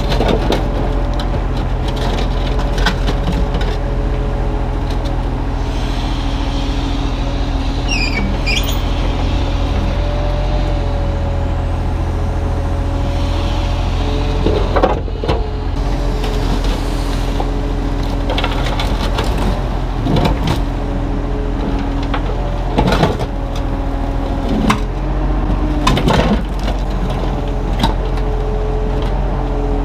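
Kubota U35-3 mini excavator's diesel engine running steadily, its hydraulics whining and changing pitch as the arm works. There is a brief squeal about eight seconds in, and several sharp knocks and cracks of concrete being broken and shifted, most in the second half.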